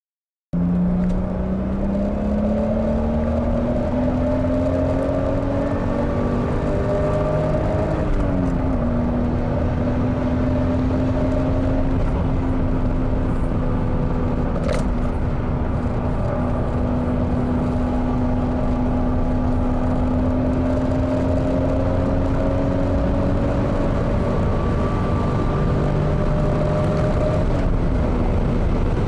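Toyota Supra MK4's 2JZ-GTE twin-turbo straight-six under full throttle: the engine note climbs, drops briefly at a gear change about eight seconds in, then holds at high, nearly steady revs over heavy wind and road roar.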